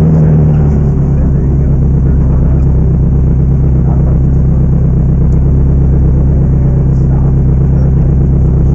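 Ferrari race car's engine running, a loud steady drone that drops a little in pitch about a second in and then holds even.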